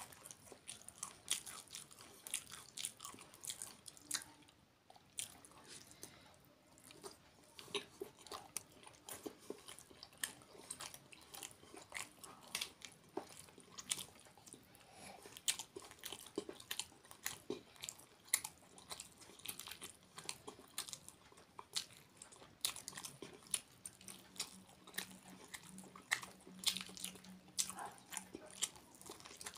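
A person chewing and gnawing a cooked chicken leg eaten by hand, close to the microphone: many sharp, irregular wet clicks of teeth and lips on meat and bone.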